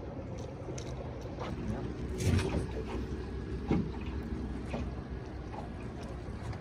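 Boat's outboard motor running steadily at trolling speed, with two thumps about two and three and a half seconds in.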